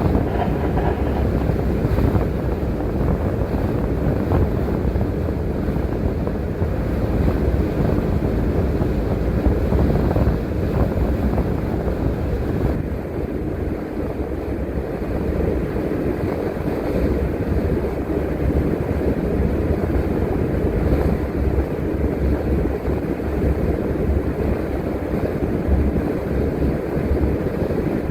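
Empty bus driving along at steady speed, heard from inside the cabin: a continuous rumble of engine, tyres and wind with no breaks.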